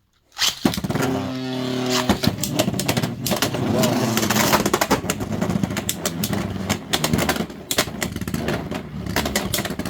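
Beyblade X tops, Lightning L-Drago and Dranzerspiral, launched into the stadium and battling: a whirring whine for about a second after the launch, then spinning and grinding with many sharp clacks as the tops hit each other and the stadium walls.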